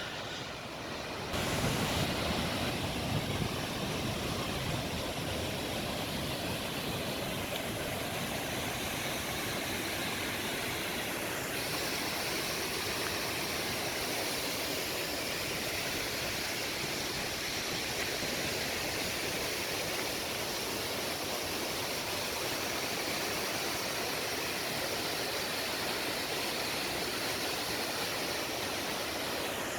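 Tvindefossen waterfall: a steady, even rush of falling water, with a slight change in its hiss about eleven seconds in.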